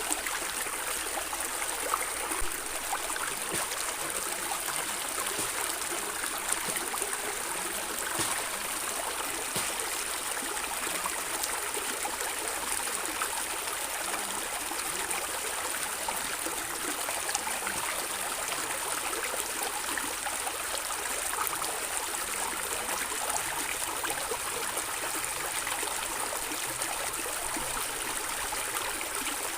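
Water flowing and gurgling over stones in a stream, a steady rushing with bright, fine splashes.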